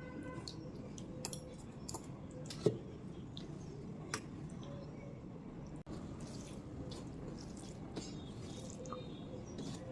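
Close-up eating sounds: wet chewing and food being handled, with scattered small moist clicks and smacks. Two sharper clicks come at about two and a half and four seconds in.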